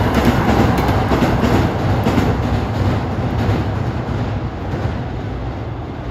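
Hankyu electric commuter train running across a railway bridge, its wheels clacking over the rail joints. The sound fades as the train pulls away, with the clacks dying out about halfway through.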